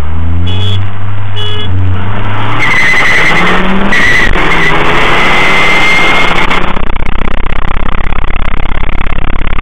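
Turbocharged four-cylinder hot-hatch engine revving hard under full acceleration, the pitch climbing in two pulls with a gear change about four seconds in. It is heard from inside the cabin through an overloaded, distorted dashcam microphone. A steady high whistle rides over the middle part, and from about seven seconds in the sound turns into a fast pulsing rumble.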